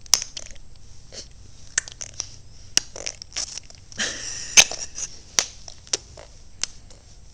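A baby clicking and smacking his tongue and lips, about a dozen sharp clicks, with a longer breathy noise about four seconds in.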